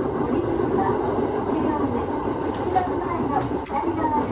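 Aoimori Railway 701-series electric train running along the line, heard from inside at the front. It is a steady rumble of wheels and running gear, with faint wavering whines and a few light clicks.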